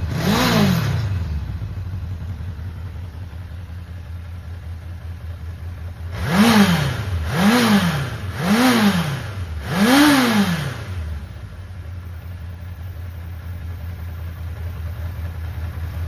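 Honda CB750F (RC04) air-cooled inline-four engine idling, revved once at the start, then given four short revs in a row in the middle, each rising and dropping back to a steady idle. It runs with no abnormal noise, as the seller describes it.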